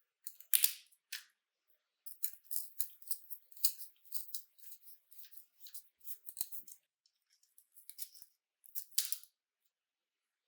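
A small hand tool working on a scale model, making a quick run of short, crisp snipping clicks, then a few more near the end.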